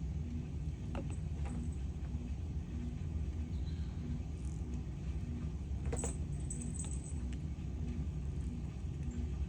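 Steady low mechanical hum with a faint tone pulsing about twice a second, and a few light clicks and taps, with a brief cluster of them about six seconds in.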